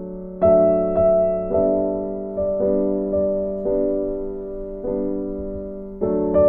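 Slow background piano music: soft chords struck about once a second and left to ring and fade.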